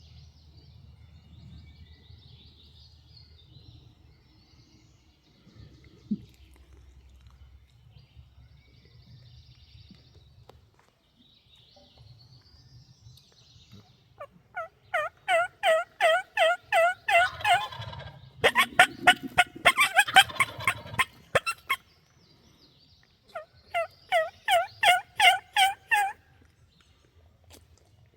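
Wild turkey calling: about halfway through, a run of evenly spaced yelps at about four a second, then a loud rattling gobble, then a second run of yelps near the end.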